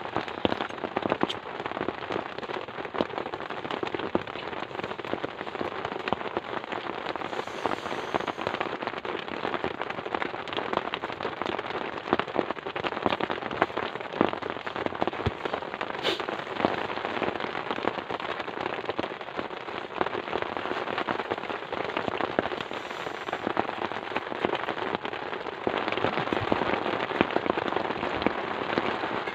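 Heavy, steady rain with a dense crackle of drops hitting a surface close by; it gets a little louder near the end.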